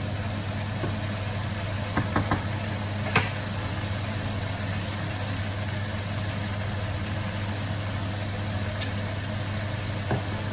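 Onions frying in a pan, a faint steady sizzle over a constant low hum, with a few sharp taps of a utensil against the pan about two and three seconds in and once near the end.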